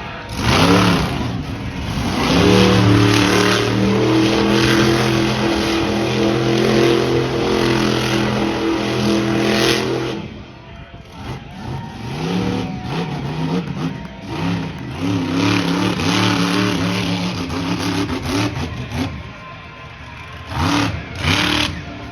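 Monster truck engine revving hard. It climbs within the first couple of seconds and is held at high revs until about ten seconds in, then drops off, revs up and down repeatedly, and gives another sharp burst near the end.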